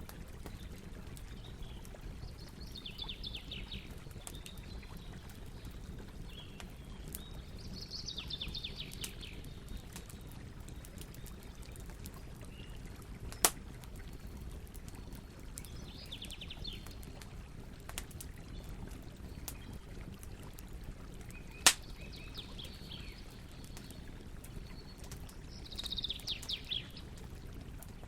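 Campfire burning with a steady low hiss and rumble, with two sharp pops of burning wood, one about halfway through and one later on. A bird sings short rapid trills about five times.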